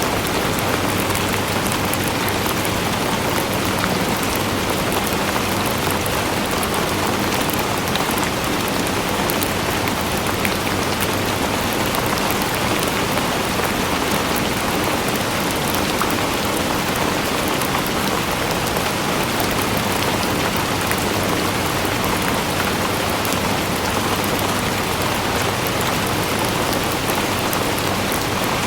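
Steady heavy rain falling on surfaces, a dense even hiss with many small drop ticks through it.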